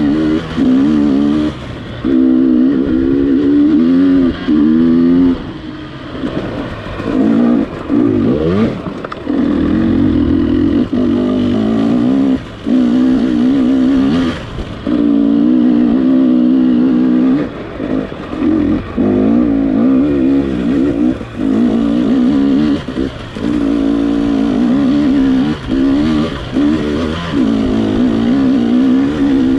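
Gas Gas EX300 TPI two-stroke dirt bike engine being ridden hard, revving up in bursts and dropping off again every second or two as the throttle is opened and closed.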